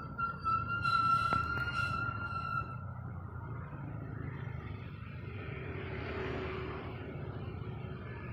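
A long, steady, whistle-like call of an unidentified animal, held on one pitch for about two and a half seconds, which the recordist wonders might be a nightingale. It is heard over a steady low background rumble.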